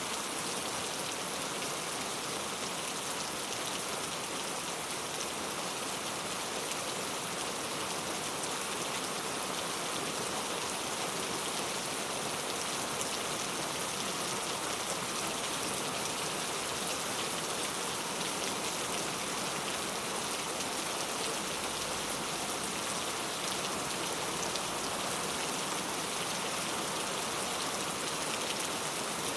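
Heavy rain falling steadily, a dense even hiss of countless drops spattering on hard street surfaces.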